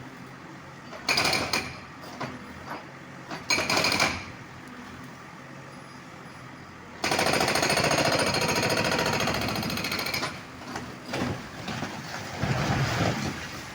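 Concrete breaker hammering in rapid strokes as it breaks up concrete. It comes in bursts: two short ones in the first few seconds, a long run of about three seconds from about halfway, and more short bursts near the end.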